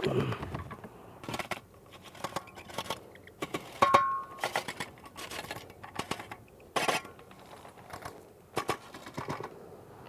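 Hand tools scraping and knocking on a damp sand-cement mortar bed as it is spread and leveled, in a string of short irregular strokes. There is a brief metallic ring about four seconds in.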